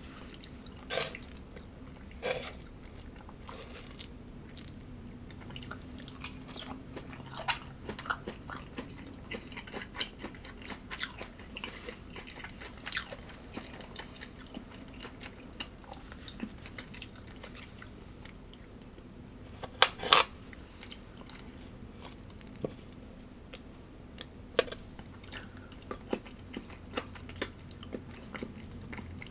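A person chewing and biting food close to the microphone, with frequent short crunchy clicks and a louder sharp double click about twenty seconds in.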